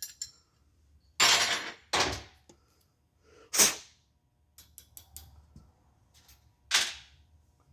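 Workbench handling of steel connecting-rod parts: light clicks and knocks, broken by four short rushing bursts of about half a second each.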